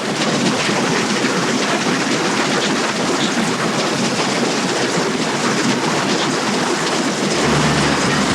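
Passenger train running at speed: a steady, dense rushing rumble of the train in motion. Low sustained music notes come in near the end.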